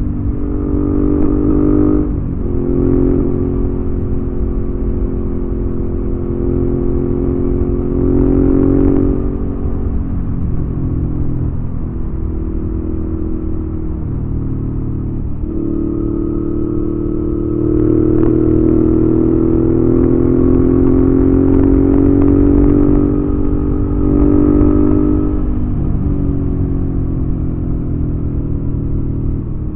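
Exhaust note of a 2019 Suzuki V-Strom 650's V-twin through a Delkevic aftermarket exhaust while riding. The note rises and falls with the throttle, with a few brief dips, and climbs slowly in pitch about halfway through.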